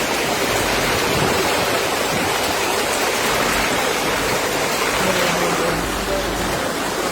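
Heavy rain pouring down hard in a steady, dense rush.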